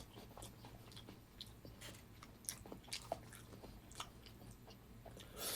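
Close-up chewing of a mouthful of raw mackerel sashimi with garlic and chili pepper: faint, irregular wet mouth clicks. A short breathy rush comes near the end.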